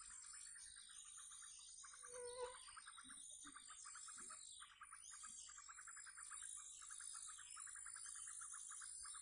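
Faint outdoor chorus: a steady, rapidly pulsing insect trill with short breaks, overlaid by repeated short descending bird calls. A brief low note sounds a little over two seconds in.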